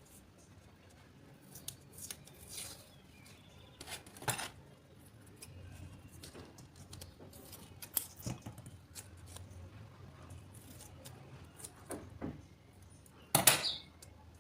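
Small hand tools and parts being handled at a workbench: scattered sharp clicks a few seconds apart, with a louder cluster near the end.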